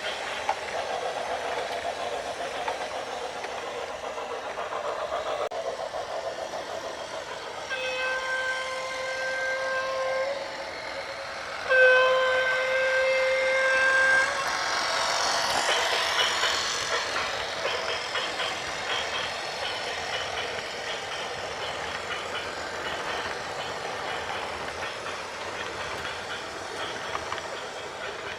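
A horn sounds two long steady blasts, each about two seconds, the second louder, over a continuous rumble of heavy vehicle or rail traffic.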